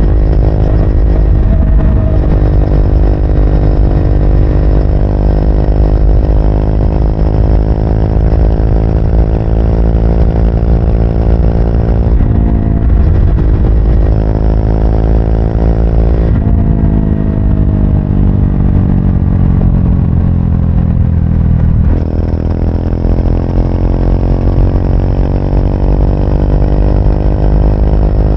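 Triumph Speed 400's single-cylinder engine running under way on the road. The revs rise, break briefly for a gear change, then fall off for several seconds as the bike slows, before climbing again near the end.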